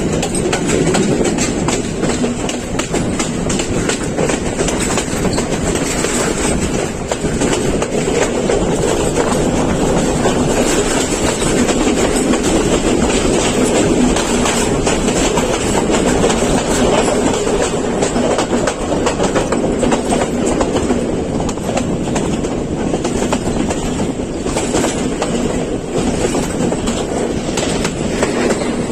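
Colombo to Badulla Night Mail express train running steadily, its wheels clacking over the rail joints under a continuous rumble.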